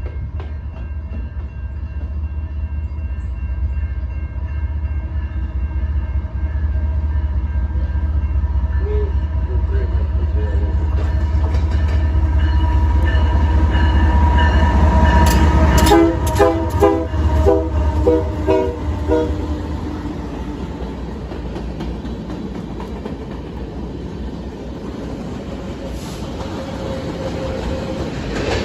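Diesel locomotive running close by, its engine rumble building, then the horn sounded in a quick series of short blasts about halfway through, followed by the rumble of rail cars rolling past.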